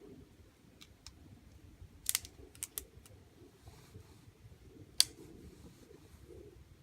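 Sharp, irregular cracks and pops of wood in a campfire being started: a handful spread over several seconds, with a cluster about two seconds in and the loudest crack about five seconds in, over a faint low rumble.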